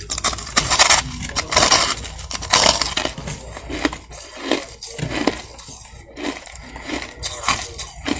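Soft crushed ice being bitten and chewed with loud crunching. The crunching is densest in the first three seconds, then comes as slower, separate crunches.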